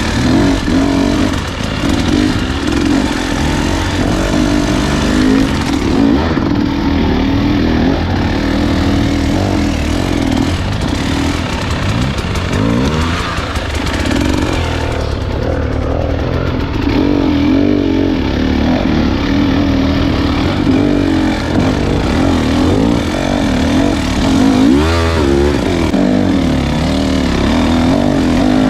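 Husqvarna dirt bike engine under way on a trail, its pitch rising and falling again and again as the throttle is worked, with a quick rev about 25 seconds in.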